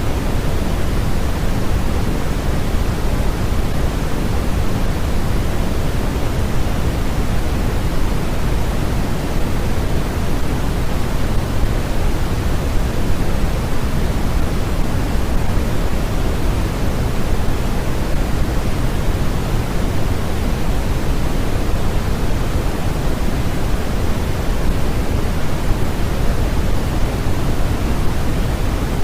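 Steady, unchanging white-noise track, an even hiss with its weight in the low end, giving a deep rush rather than a bright hiss.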